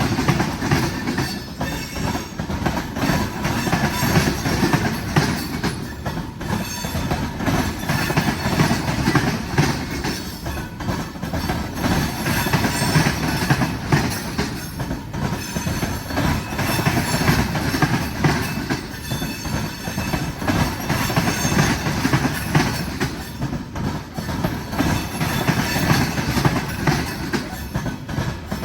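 Freight cars of a long train rolling past at steady speed: a continuous rumble of steel wheels on rail, with a rapid clickety-clack as the wheels cross rail joints.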